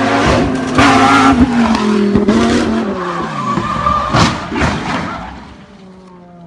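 A sports car's engine running at high revs while its tyres skid, with several harsh noisy bursts; the engine note falls about three seconds in, and near the end the sound settles to a quieter, low engine hum.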